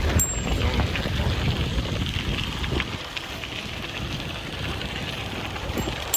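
Wind buffeting the microphone of a moving bicycle, with a steady crackling hiss from the tyres rolling along the trail. A short sharp click near the end.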